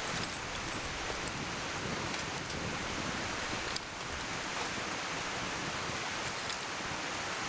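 Wood fire crackling now and then, a few sharp snaps over a steady rush of flowing stream water.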